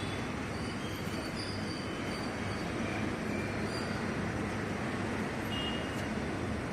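Steady mechanical background noise of a vehicle service bay, with brief high-pitched squeaks now and then.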